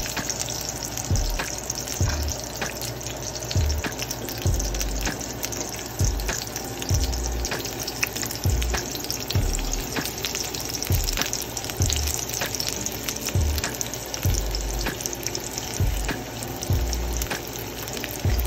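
Onions and garlic sizzling and crackling in hot oil in a wok, under background music with a steady low beat.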